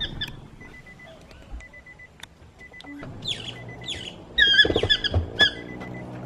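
Fiery-billed aracari giving a series of sharp, squeaky calls that sweep downward in pitch. They come more often and louder from about halfway in. A faint, evenly broken high note sounds beneath them.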